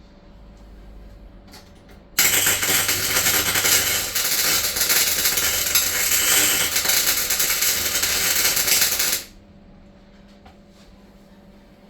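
Electric welding arc crackling in one continuous run of about seven seconds, starting abruptly about two seconds in and cutting off sharply, with a faint steady hum before and after.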